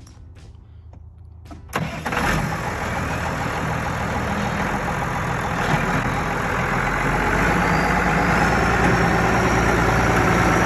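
Tractor engine that comes in suddenly about two seconds in, then runs steadily and grows gradually louder.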